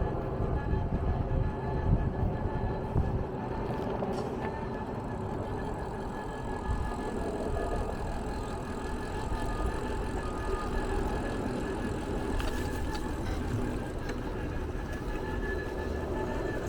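Steady low rumble of a running vehicle, with faint high steady tones above it.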